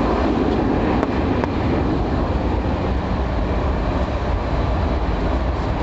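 Steady loud rumble and roar of an airliner heard from inside the passenger cabin, engine and airflow noise with a deep low rumble.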